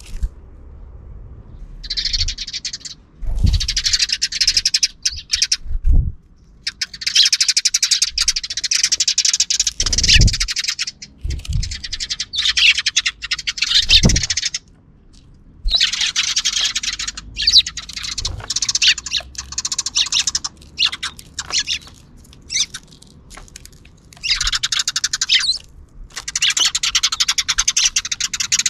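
Sparrows chirping and chattering in long, dense stretches broken by short pauses, with a few brief low thumps among them.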